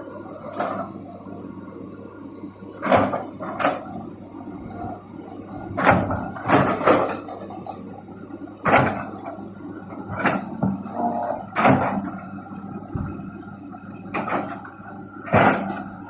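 Excavator at work: its engine running steadily under about eleven loud, irregular clanks and creaks from the working machine.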